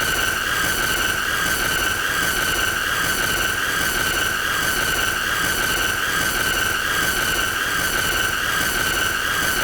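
A continuous high-pitched squealing tone with a stack of overtones and a light, even pulsing, held unchanged throughout: the looped 'most annoying sound' effect.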